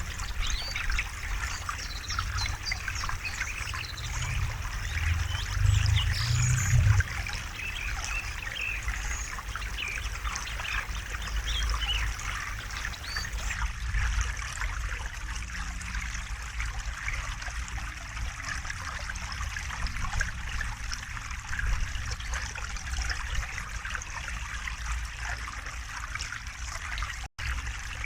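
River water flowing and trickling steadily, with a low rumble that swells for a few seconds early on. The sound cuts out for an instant near the end.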